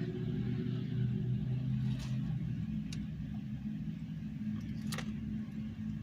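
A steady low hum with a few short, sharp clicks of eating noises.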